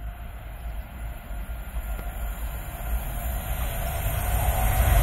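Class 390 Pendolino electric train approaching through the station, its low rumble growing steadily louder as it nears.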